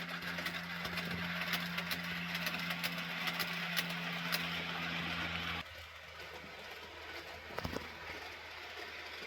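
Piko G 1206 model diesel locomotive, converted from DC to AC, running with a steady motor hum, hiss and scattered clicks. The hum stops abruptly a little over halfway through, and a brief rattle of clicks follows near the end.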